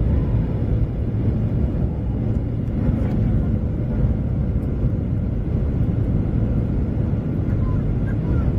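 Steady rumble of a Boeing 737's jet engines and cabin noise heard from inside the passenger cabin, with a faint constant hum, unchanging throughout.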